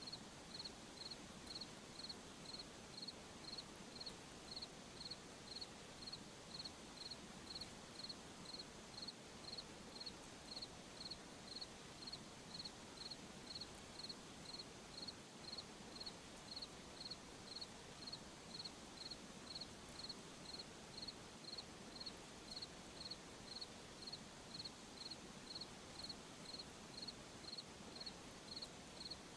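A cricket chirping steadily at night, one short chirp about every two-thirds of a second, over a faint hiss.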